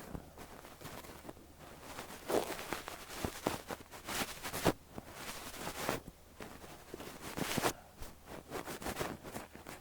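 A fluffy down ear brush swept over the ear in repeated soft swishing strokes, with small crackles where the fibres rub, the strokes louder through the middle.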